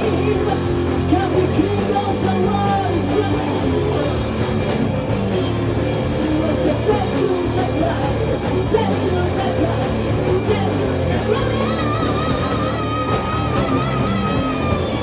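A rock band playing loudly with singing, electric guitar and drum kit, with a long wavering held note near the end.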